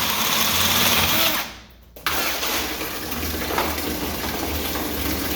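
Electric drill turning a 1-1/4 inch hole saw through a schedule 10 steel sprinkler pipe. It stops briefly about a second and a half in, then runs again steadily.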